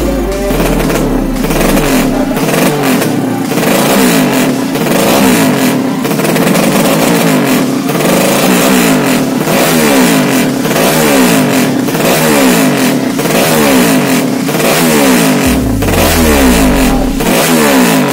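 Loud racing underbone motorcycle engine being revved again and again, its pitch climbing and dropping in quick repeated sweeps.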